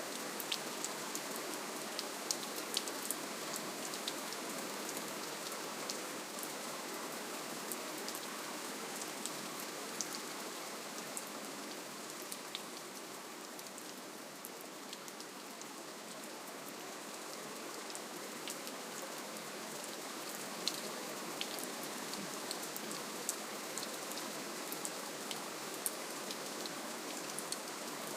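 Steady rainfall: an even hiss of rain with many small, sharp drips of individual drops landing nearby, easing slightly in the middle and picking up again.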